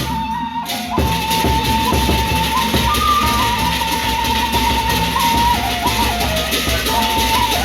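Gendang beleq ensemble playing: large drums and cymbals keeping a fast, even beat under a held melody line that steps between a few notes. The ensemble drops out briefly just after the start and comes back in about a second in.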